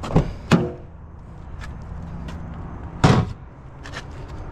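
Three clunks of objects being handled: two quick ones at the start and a heavier one about three seconds in, over a steady low rumble.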